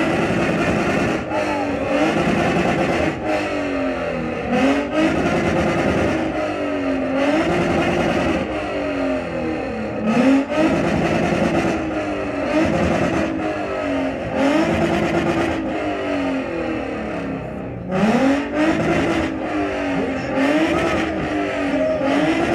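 2016 Ford Mustang's 3.7-litre V6 with aftermarket headers, free-revved hard in neutral: the engine pitch climbs and drops back again and again, about one rev every two seconds, with a short lull about three-quarters of the way through.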